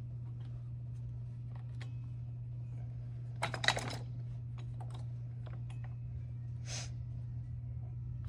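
Small metal clicks and clinks of bolts and hand tools being handled while fastening an engine to its mount, with a sharper cluster of clanks about three and a half seconds in. A steady low hum runs underneath.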